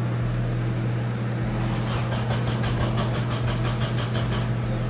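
Nissan 240SX S14 engine turning over on its starter, a rapid even chugging of about seven pulses a second that starts about a second and a half in and stops about three seconds later, over a steady low hum. It is a start attempt after the fuel pump was rewired to stay powered.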